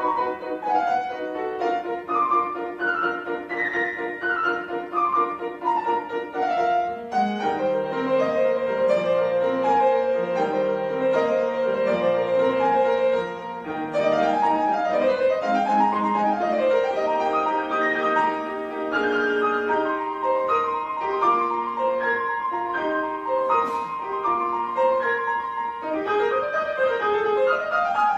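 Instrumental music led by piano, a gentle classical-style piece with flowing melodic runs over held notes. The texture fills out about a quarter of the way in.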